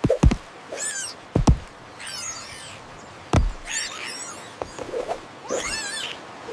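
High, warbling, squeaky animal-like calls, four of them about a second apart, mixed with a few sharp thumps.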